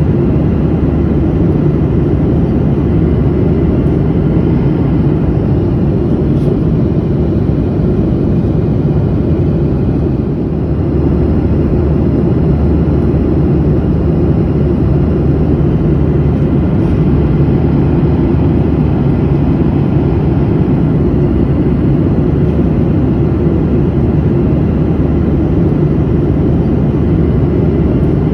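Steady in-flight noise of an airliner heard from inside the cabin: a constant low rush of engines and airflow, dipping slightly for a moment about ten seconds in.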